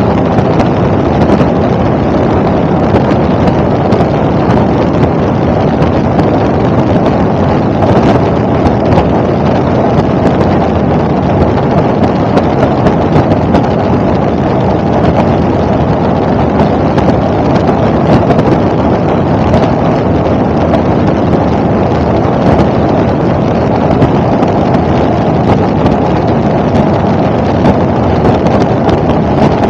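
Helicopter engine and rotor noise heard inside the cabin: a loud, steady, dense drone that holds unchanged throughout, with some wind buffeting on the microphone.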